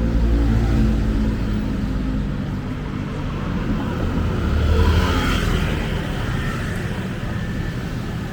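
Street traffic: a motor vehicle's engine running close by with a steady low drone, and a passing rush of traffic noise that swells about five seconds in.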